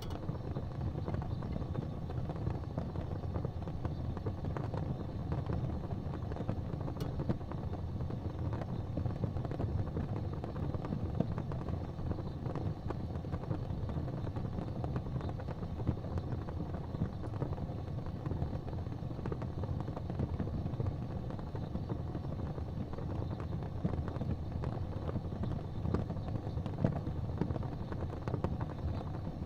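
Wood fire crackling in a fireplace, with irregular small pops over a steady low rumble.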